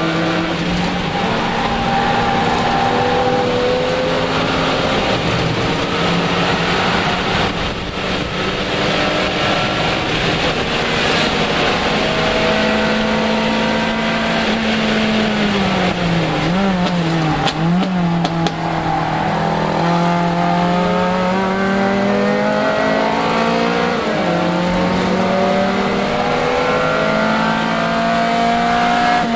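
Lexus IS300 race car's 3.0-litre inline-six engine heard from inside the cabin at speed, over steady wind and road noise. About halfway through the engine note drops and wavers quickly for a moment, then climbs again in several steps through the gears.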